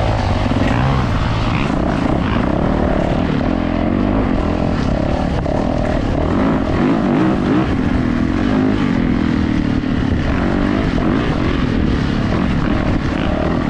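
Yamaha YZ450F dirt bike's four-stroke single-cylinder engine running under throttle on the move, its pitch rising and falling as the throttle is worked, over a steady rush of wind noise.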